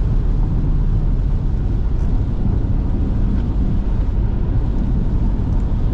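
Jeep Grand Cherokee SRT's V8 with a mid-muffler delete, heard from inside the cabin while driving on a wet road: a steady, low drone of engine and road noise.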